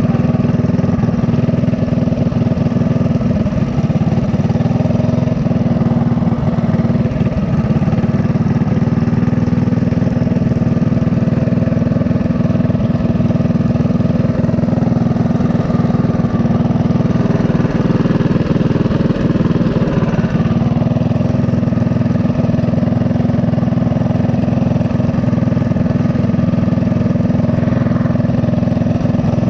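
Mini bike's small single-cylinder four-stroke engine running steadily with little change in pitch.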